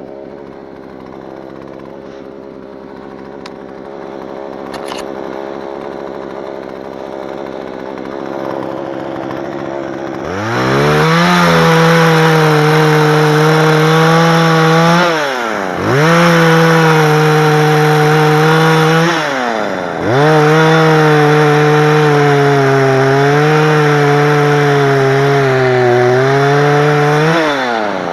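Chainsaw engine idling at first, then revved up about ten seconds in and held at a high, steady speed. The revs dip and come back up three times.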